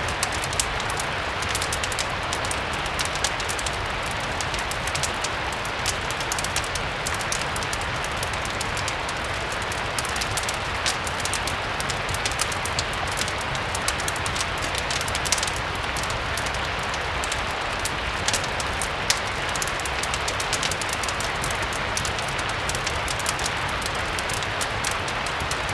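Steady rain, a continuous even hiss with a low rumble beneath, mixed with a wood fire whose frequent small sharp crackles pop out irregularly throughout.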